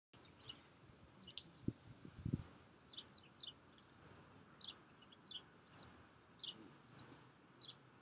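Small birds chirping, short high chirps about two a second, faint over low wind noise, with a couple of low wind buffets on the microphone about two seconds in.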